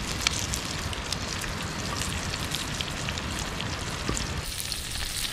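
Brussels sprouts and potato slices sizzling in butter in a cast-iron skillet over a campfire: a steady hiss with many small pops and crackles.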